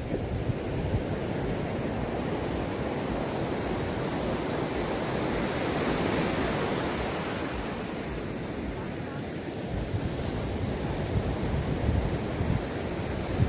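Ocean waves washing onto a beach, with a steady surf hiss; a wave breaks and rushes up the shore about five to seven seconds in. Low wind rumble on the microphone underneath.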